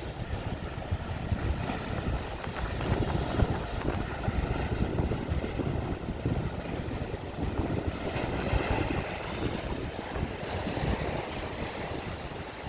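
Strong gusty wind buffeting the microphone, with lake waves breaking and washing in underneath.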